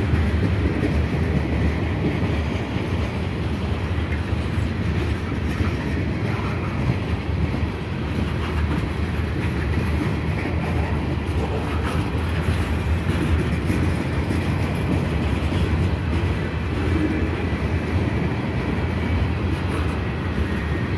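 Loaded CSX phosphate hopper cars of a freight train rolling past, a steady noise of steel wheels running on the rails.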